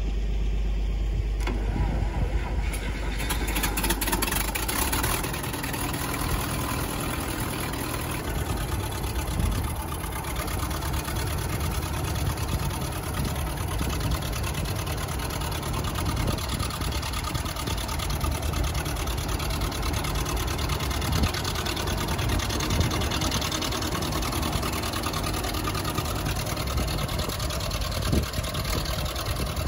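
Propane-fuelled engine of a Case 830 Comfort King tractor on a cold start, starting up over the first few seconds, then running steadily.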